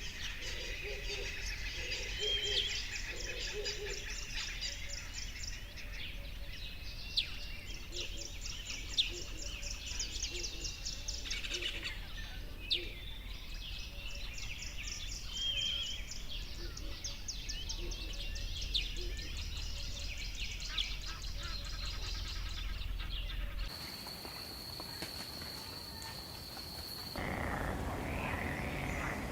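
Birds chirping and trilling in a dense chorus, with lower notes repeating under them. About 24 s in it changes abruptly to a steady high-pitched trill, joined a few seconds later by a louder rasping chorus.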